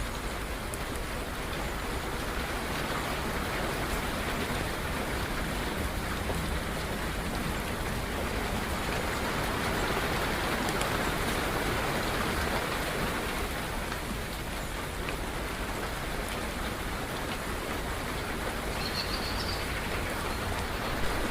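Steady rain falling, swelling and easing a little in strength. A single brief high bird chirp sounds near the end.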